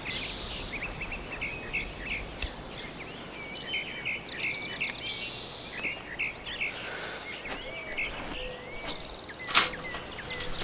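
Forest birdsong: many small birds chirping and twittering over a light hiss, with two sharp clicks, the louder one near the end.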